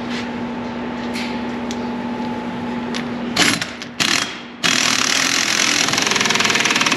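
Impact wrench running down the pinion nut on a 1958 Edsel rear differential's yoke: two short blips about three and a half seconds in, then a steady hammering run of about three seconds. A steady hum underlies the first half.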